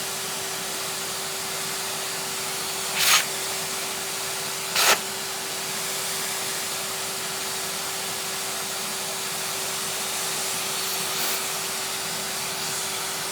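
Numatic Henry canister vacuum cleaner running steadily, a hissing rush of air over a constant hum. Two brief louder rushes come about 3 and 5 seconds in.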